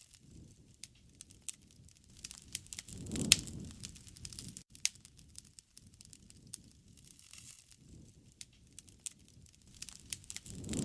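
Wood fire crackling with scattered sharp pops and snaps, the loudest about three seconds in, over low rushing swells around that pop and again near the end.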